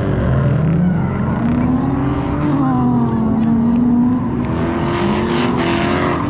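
Car engine running at a track, its pitch rising and falling as it revs up and eases off.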